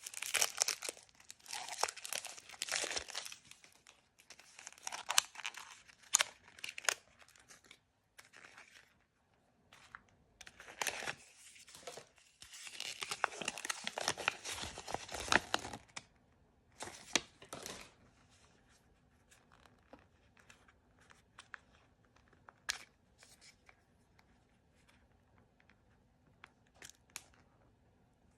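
Blind bag packaging being torn open and crinkled by hand in several bursts through the first half or so. After that come only occasional light clicks and taps of handling.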